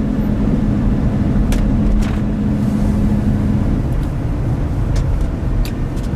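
Pickup truck driving in four-wheel drive on a snowy road, heard from inside the cab: a steady low rumble of engine and road noise. A steady hum runs with it and stops about four seconds in, and a few light clicks come through.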